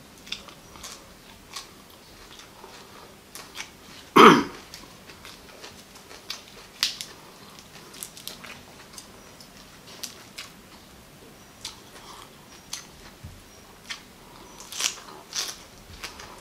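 Chewing and biting raw agati flowers: soft crisp crunches and wet mouth clicks at uneven intervals, with one loud, short mouth noise about four seconds in.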